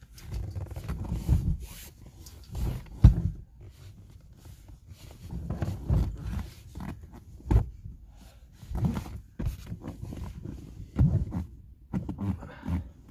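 Irregular knocks, thumps and rustling of things being handled and moved about inside a small car's cabin, with a sharp knock about three seconds in and others near 7.5 and 11 seconds.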